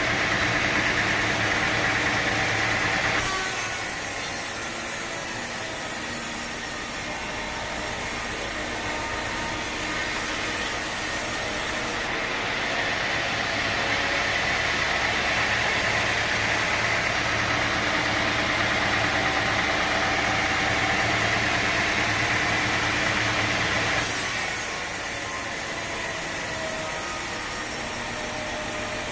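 Sawmill machinery running steadily, an engine hum with a few steady tones and no separate cuts or knocks. The sound shifts abruptly about three seconds in, again near the middle, and about five seconds before the end, when it becomes slightly quieter.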